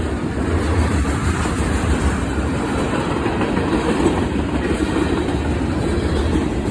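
Norfolk Southern freight train's sand hopper cars rolling past: the steady noise of steel wheels running on the rails.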